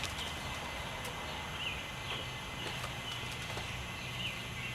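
Short high chirps from an animal, repeated irregularly about every half second, over a low steady hum with a few faint clicks.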